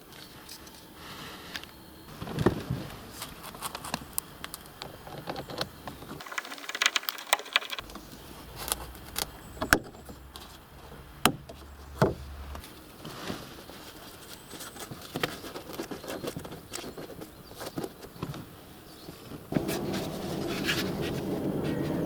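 Irregular clicks and knocks of hard car interior trim parts and screws being handled and fitted. A steadier, louder noise comes in near the end.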